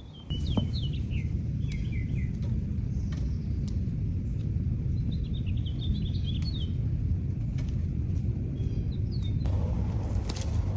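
Birds chirping in short runs of high calls, three times, over a steady low rumble.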